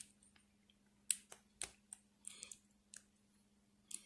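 Faint, irregular clicks and taps of hard plastic on plastic: a weapon accessory being worked into the tight grip of a Power Rangers Lightning Collection action figure's hand.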